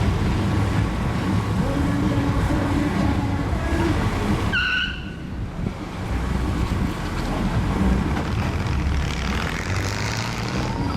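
Car engines running and rumbling past on a street cruise, steady and loud, with a short high-pitched tone about four and a half seconds in as the rumble briefly drops.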